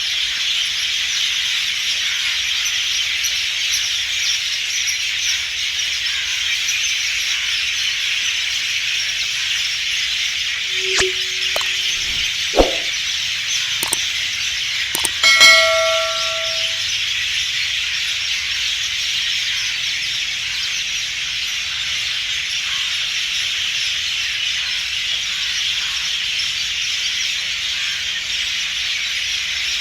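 Outdoor wildlife chorus: a steady, high-pitched, hiss-like din throughout. About a third and half way through come a few brief louder calls and sharp clicks, including a short rising call and one clear pitched note.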